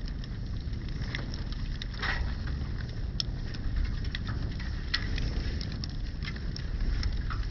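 Wood fire crackling, with irregular sharp pops and snaps over a steady low rumble; the strongest pop comes about two seconds in.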